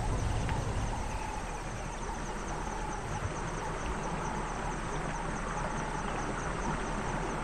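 An insect trilling steadily, a rapid high-pitched pulsing, over a steady low rush of outdoor noise.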